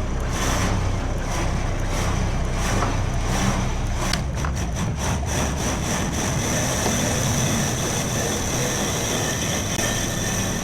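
A motor vehicle's engine running steadily with a thin high-pitched whine over it, and a quick run of sharp clicks about four to five seconds in.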